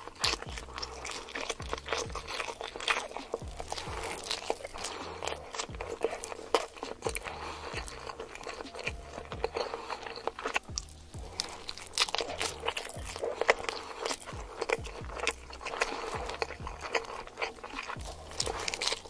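Close-up eating sounds of a person chewing a mouthful of giant salmon nigiri sushi, a stream of small clicks, with background music underneath. Another bite comes near the end.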